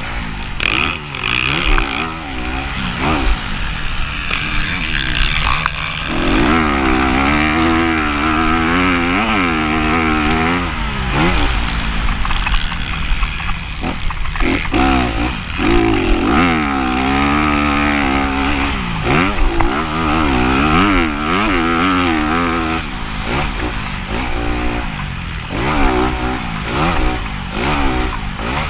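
Motocross bikes racing, their engines revving up and dropping back over and over as the riders accelerate and shift, several engines overlapping.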